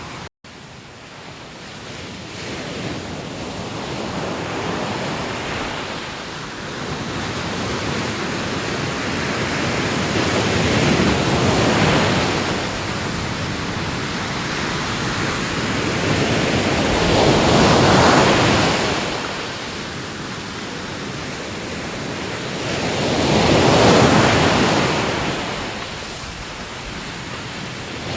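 Ocean surf breaking on a shore: a steady wash of water noise that swells into a louder breaking wave about every six seconds. A brief cutout to silence comes just after the start.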